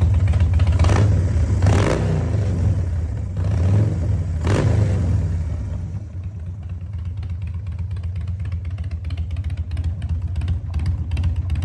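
Harley-Davidson V-twin running through a Vance & Hines Big Shots exhaust: a few quick throttle blips in the first five seconds, then it settles back to a lumpy idle.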